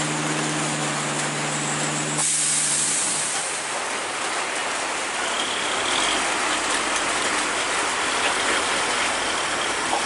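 A heavy vehicle's engine hum that drops away about two seconds in, as a short burst of hiss sets in, followed by a steady, even rumble of road and traffic noise.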